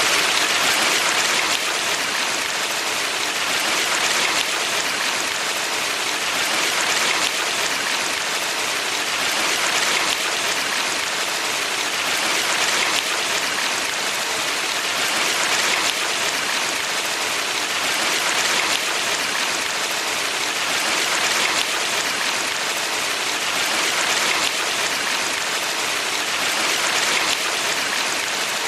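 Valley stream water rushing steadily, an even hiss that swells gently every few seconds.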